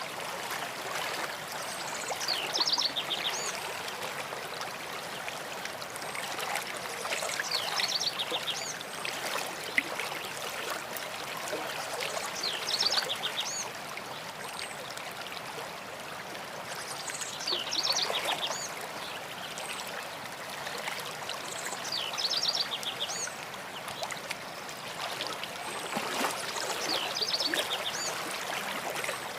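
Stream running steadily, with a songbird singing the same short, quick run of high notes about every five seconds.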